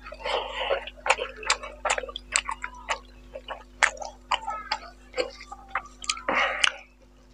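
Close-miked wet chewing and lip smacking of a mouthful of rice and boal fish curry eaten by hand: many sharp mouth clicks and smacks, with a couple of longer squelches, one just after the start and one near the end.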